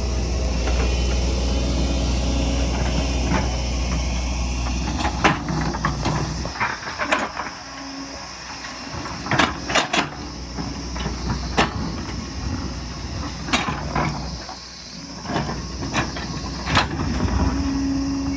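Excavator's diesel engine running steadily, then about five seconds in, a series of sharp clanks and knocks as the bucket works rock and soil, while the engine note dips and rises with the work.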